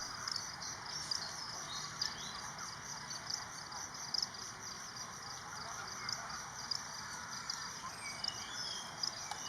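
Insects chirping in a steady, fast-pulsing high trill over outdoor ambience, with a few short bird calls near the end.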